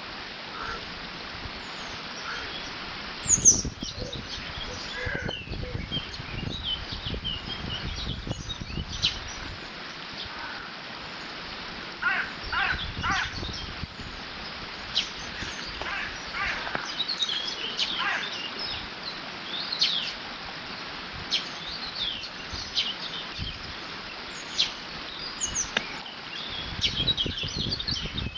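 Steady rush of water pouring through a beaver dam, with several small birds singing and chirping in short phrases throughout. Gusts of wind rumble in from about three seconds in and again near the end.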